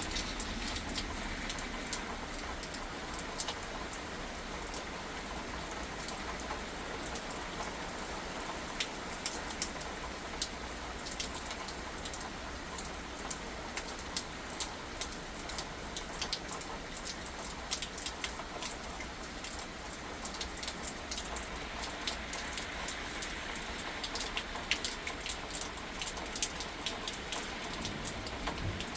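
Thunderstorm rain falling steadily, with many sharp taps of drops striking close by.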